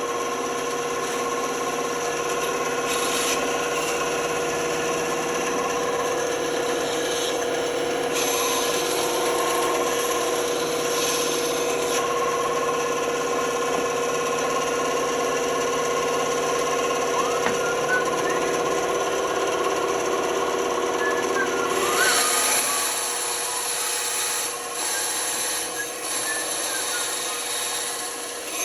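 Band saw running with a steady hum while its blade cuts a wooden cutout. About three-quarters of the way through, the sound changes: the lower part drops away and the cutting noise gets brighter.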